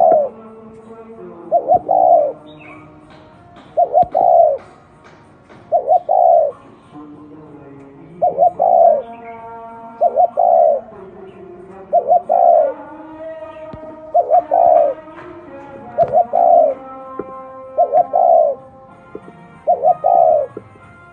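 Spotted dove cooing: a repeated phrase about every two seconds, each a few quick low notes run together into a longer final coo.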